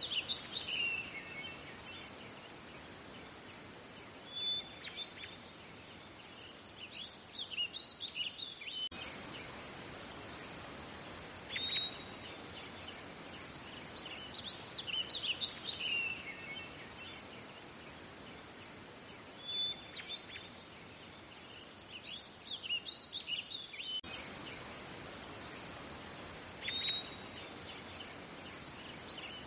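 Birds chirping in short clusters every few seconds over a faint steady hiss.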